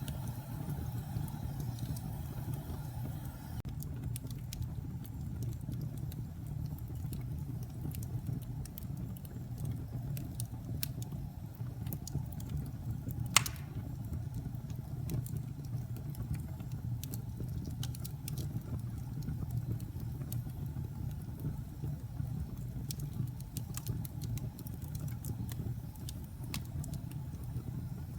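Wood fire burning in a fireplace: a steady low rumble with scattered crackles, and one sharp, louder pop about halfway through.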